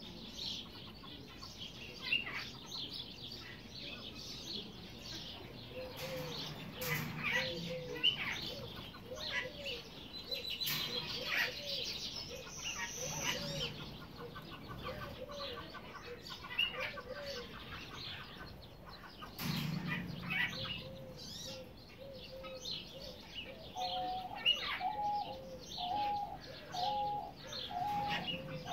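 Bird calls: thin, high chirping and peeping throughout, over a repeated lower call of short rise-and-fall notes, about one or two a second. The lower call comes in two runs and is joined by a second, slightly higher line of the same notes near the end.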